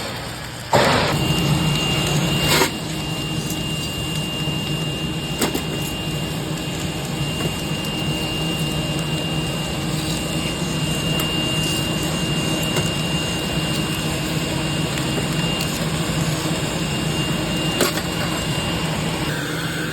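Submerged arc welding equipment running: a steady machine hum with a thin high whine. A louder rush of noise comes about a second in and stops suddenly a couple of seconds later, and there are a few sharp clicks.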